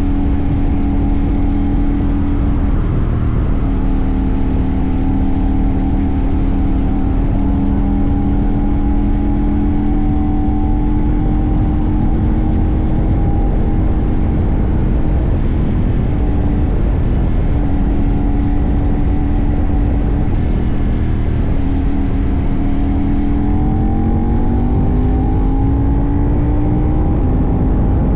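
CFMoto 800NK's 799 cc parallel-twin engine running under way, holding a fairly steady pitch, then revving up from about three-quarters of the way in as the bike accelerates. A constant low rumble lies beneath it.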